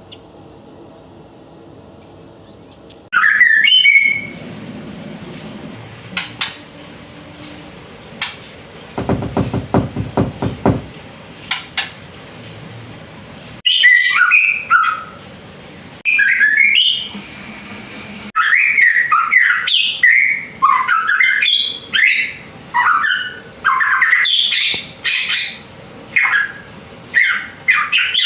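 Juvenile male white-rumped shama (murai batu), still in speckled young plumage, singing loud varied whistled phrases that glide up and down; the song starts about three seconds in, comes in scattered phrases at first and runs almost without a break through the second half. A brief low rapid rattle sounds about a third of the way in.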